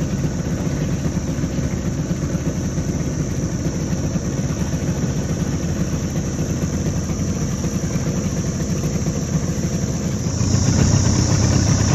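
Outboard motor on a small aluminium boat running steadily, a little louder about ten seconds in.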